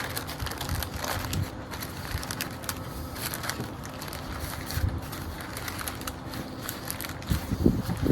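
Parchment paper crinkling and rustling in irregular little crackles as it is rolled up by hand around a bacon-wrapped pork loin, with a faint steady hum underneath.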